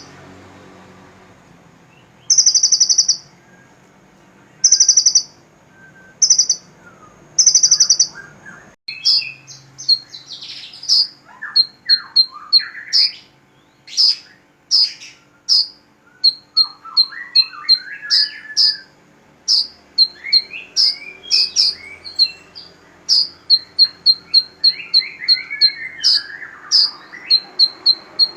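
Small songbirds singing: five short, buzzy trilled bursts over the first eight seconds, then a fast, unbroken run of sharp chirps and sweeping whistled notes.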